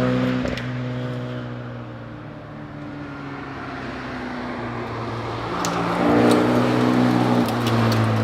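Morris Mini Cooper S's four-cylinder engine under way: loud under power at first, easing off about half a second in and running quieter for a few seconds, then pulling hard again from about five and a half seconds, its pitch stepping down near the end.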